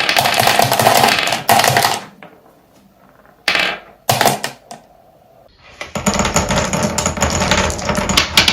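Marbles rolling and clattering through wooden Cuboro marble-run blocks: a run of dense rattling that stops after about two seconds, a few short bursts of clicks with quiet gaps, then dense clattering again from about six seconds in.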